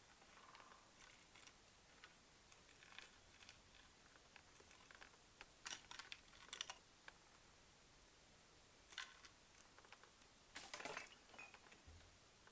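Faint, scattered small clicks and light rattles of objects being handled, a few slightly louder taps about halfway through and near the end.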